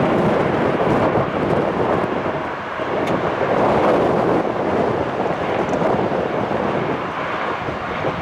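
Embraer E175 regional jet's engines: a steady jet roar that swells about three to four seconds in.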